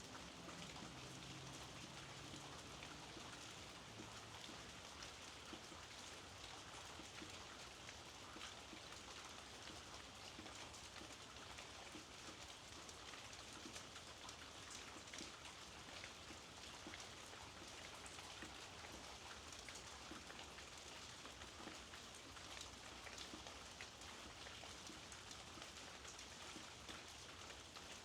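Steady, soft rainfall: an even hiss with the fine patter of many drops.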